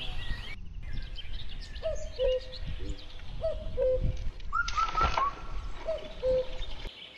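Birds calling: a short two-note call repeated about every one and a half seconds, with higher chirps between. About five seconds in, a brief rushing splash as a nylon cast net lands on shallow stream water.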